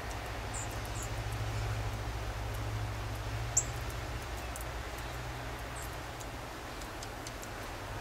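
A few short, high-pitched chips from small birds at a feeder, the sharpest about three and a half seconds in, over a steady low hum.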